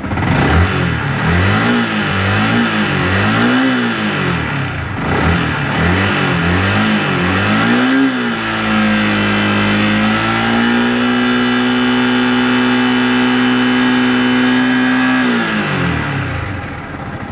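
Old-model Yamaha R15's 150 cc single-cylinder engine being revved: a series of quick throttle blips, revs rising and falling, then held steady at higher revs for about seven seconds before dropping back to idle near the end. It is a rev test after fitting a regulator-rectifier (charging plate) from another bike, and the engine revs freely.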